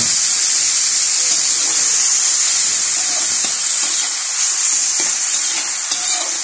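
Pumpkin, onion and lemongrass sizzling in hot oil and a little water in a wok: a loud, steady hiss, easing slightly toward the end, with a few light scrapes of a metal spatula.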